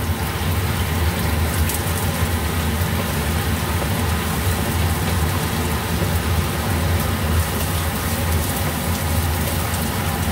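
Chopped onion and sliced garlic sizzling in hot oil in a non-stick frying pan, a steady crackling sizzle as they sauté, over a steady low hum.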